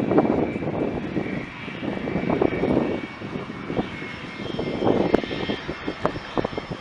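Aircraft engine running with a steady high whine, heavily buffeted by wind gusting on the camera microphone.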